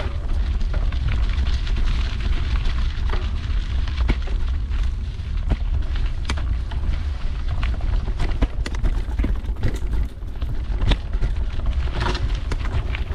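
Wind rumbling on a GoPro action camera's microphone as a mountain bike rides a dirt trail, with tyre noise and many irregular knocks and rattles from the bike going over bumps.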